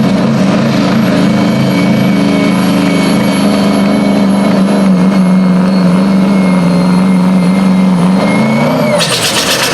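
Pulling truck's engine held at full throttle under heavy load, a steady loud drone that climbs slightly in pitch and then drops away about nine seconds in as the throttle is released.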